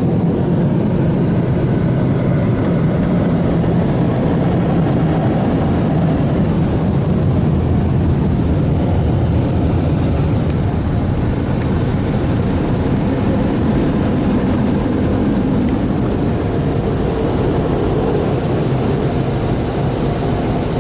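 Automatic car wash blower dryers running, a loud, steady rush of air blasting over the car.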